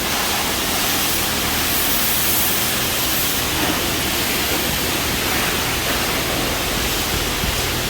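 Automatic car wash machinery giving off a steady rushing noise, like heavy spray or blowing air.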